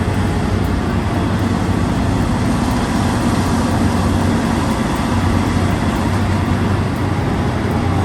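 Heavy diesel engines of large mining machines running steadily, a deep, even engine hum over loud mechanical noise.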